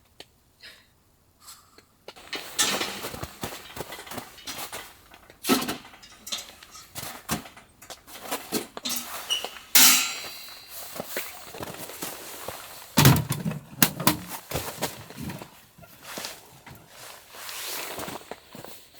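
Camping gear being handled: a quick, irregular run of rustles, knocks and clunks with a few sharper clatters, starting about two seconds in.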